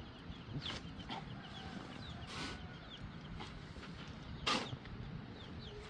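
Chickens clucking, with many short high chirps repeated throughout, and a few brief noisy sounds, the loudest about four and a half seconds in.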